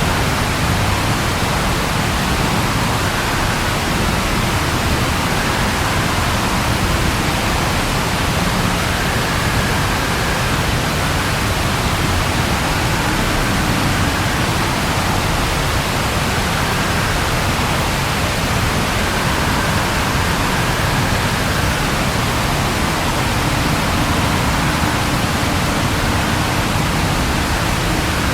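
Steady rain falling, an even hiss that runs unbroken with no thunder claps.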